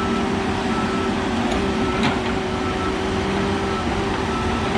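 Diesel engine of heavy logging equipment running steadily, with a backup alarm beeping at an even rhythm as a machine reverses.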